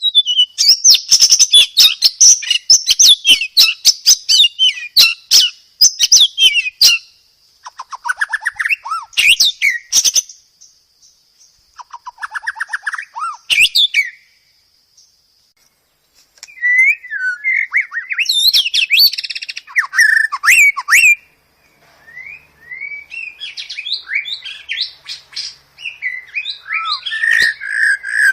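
White-rumped shama singing loud, varied phrases of rapid whistles, trills and chirps, broken by short pauses, ending on a run of repeated notes. A steady high tone runs under the first third.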